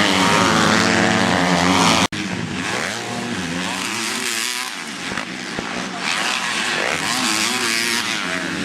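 Motocross bikes racing, several engines revving up and down on and off the throttle. A sudden cut about two seconds in, after which the engines sound farther off.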